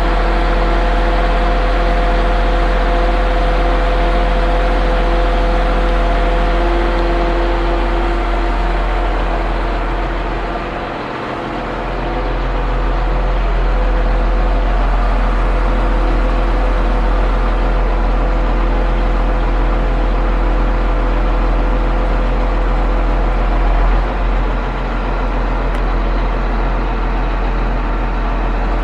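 Concrete pump truck running steadily, its engine and hydraulics giving a continuous drone with a strong low hum; the sound dips briefly about eleven seconds in.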